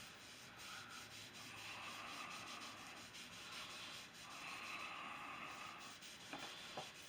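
Faint rubbing as dark wood stain is worked onto a carved aspen walking stick, in a few long strokes of a second and a half to two seconds each with short pauses between, and two small clicks near the end.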